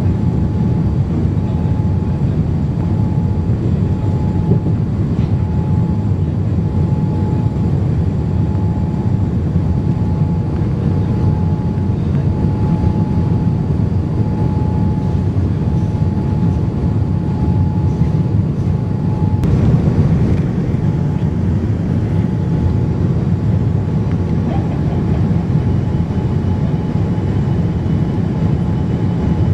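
Steady cabin noise inside a Boeing 787-9 in flight: a deep, even rush of airflow and engine drone. A faint steady whine runs over it and drops out for a few seconds about two-thirds of the way through.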